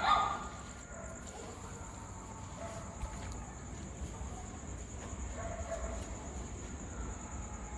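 Steady, high pulsing chirr of crickets, with a single dog bark right at the start and a few faint dog sounds later.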